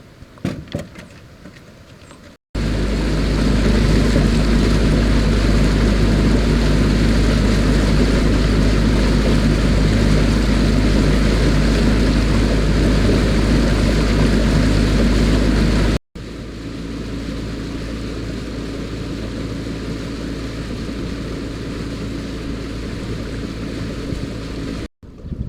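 Outboard motor running steadily, pushing a jon boat, with a heavy low rumble from wind buffeting the microphone. Light handling knocks come first; the motor noise starts abruptly a couple of seconds in, cuts off sharply and comes back quieter, then cuts off again near the end.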